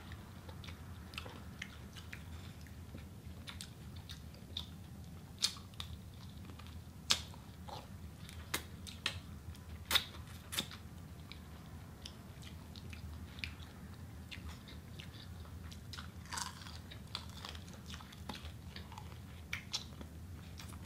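Two people biting and chewing sauced chicken wings: scattered short, sharp clicks and crunches over a faint steady low hum.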